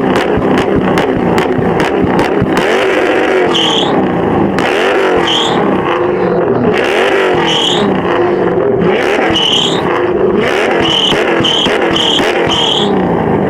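Muscle car engine revving hard, its pitch rising and falling over and over as it is driven in a burnout or drift, with a run of short tyre squeals from about a quarter of the way in.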